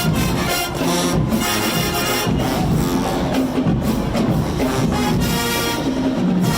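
Marching band playing: drums and percussion drive a steady beat under the band's pitched instruments.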